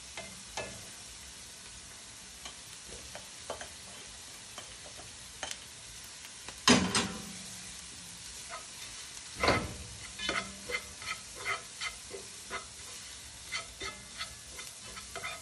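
Chopped onion with grated ginger, garlic and turmeric sizzling steadily in oil in a pot, while a slotted spatula stirs and scrapes against the pot. Two sharper knocks come about seven and nine and a half seconds in, then a run of quicker stirring strokes, about two or three a second.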